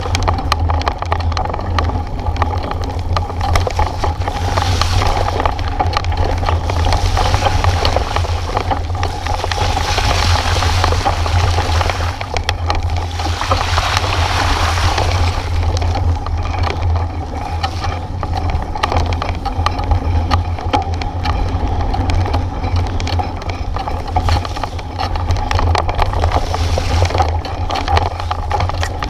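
Steady wind rumble buffeting the microphone of a moving bike, with rolling noise that swells and eases over a few seconds at a time.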